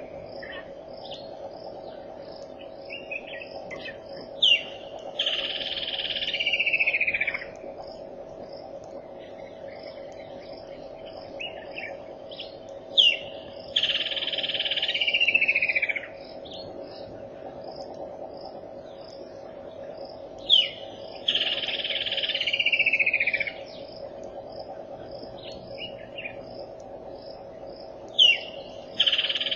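A bird singing a loud repeated phrase four times, about every seven to eight seconds: a sharp note, then a falling, warbling phrase of about two seconds. Softer chirps come in between. Under it runs a steady drone with faint, regular high ticking.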